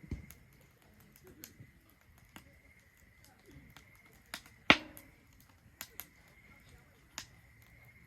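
Wood fire burning in a Solo Stove Ranger fire pit, crackling with scattered sharp pops and one much louder pop a little over halfway through. A faint steady high tone runs underneath.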